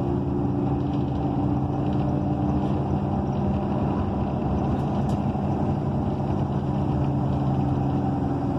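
Cummins Westport ISL G natural-gas engine of an ENC EZ Rider II transit bus running steadily, heard from inside the passenger cabin as a low, even hum with road noise under it.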